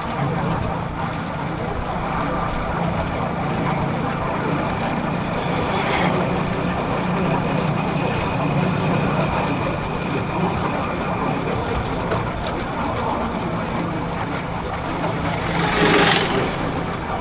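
Motorcycle engine running steadily at riding speed, a low hum under wind and road noise. A short rush of noise about six seconds in and a louder one near the end, like vehicles passing close by.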